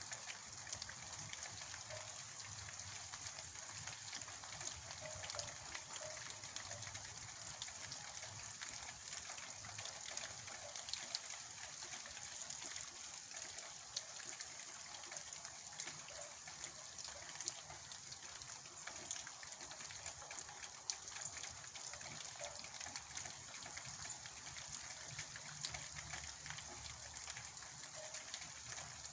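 Steady rain falling, a dense patter of small drop impacts, with a faint low rumble underneath.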